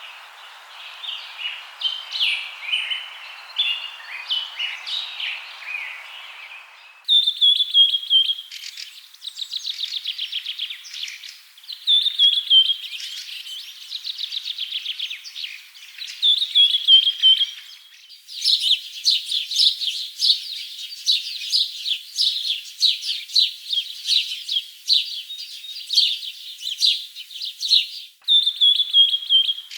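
Wild forest birds singing and chirping: short high notes, repeated phrases that fall in pitch, and fast trills. The recording cuts abruptly to a different bird chorus three times.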